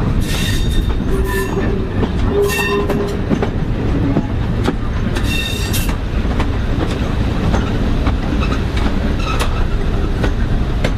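Heritage diesel multiple unit running along the line, with a steady low rumble of wheels and engine and scattered clicks of rail joints. Short high wheel squeals come three times as it takes a curve.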